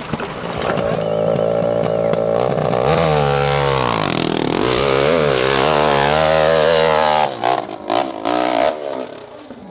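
Dirt bike engine revving hard, its pitch rising, falling and wavering with the throttle. The engine sound drops off about seven seconds in, followed by a few sharp clattering knocks.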